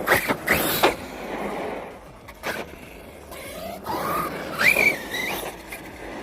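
Team Corally Kagama RC monster truck landing a jump: a quick clatter of hits in the first second and another knock about 2.5 s in, then a whine from its motor rising and falling in pitch as it revs, near the end.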